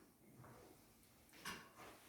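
Near silence: room tone, with one brief faint rustle about one and a half seconds in.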